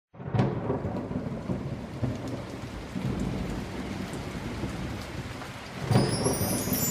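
Steady rain with rumbles of thunder, swelling louder just after it starts and again about six seconds in; chiming music starts to come in at the very end.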